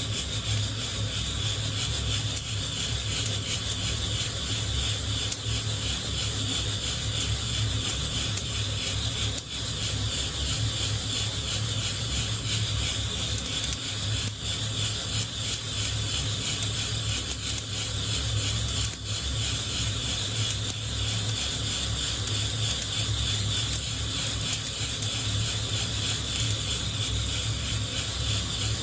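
Coffee beans being shaken in a hand-held wire-mesh roasting net, rattling and scraping against the mesh in a continuous dense patter, over a low steady hum.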